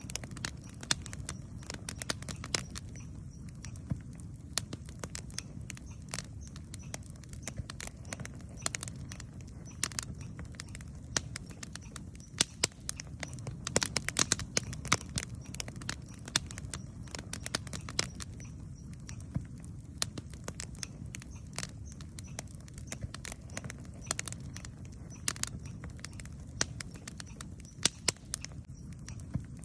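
Wood campfire crackling and popping: many sharp, irregular pops and snaps over a low steady rumble.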